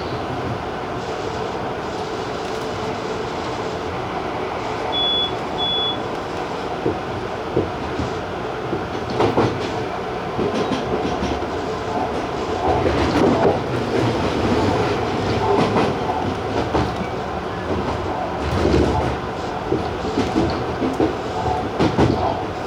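Tobu TJ Liner electric commuter train running at speed: a steady rumble of wheels on rail, with occasional louder knocks from the wheels and two short high beeps about five seconds in.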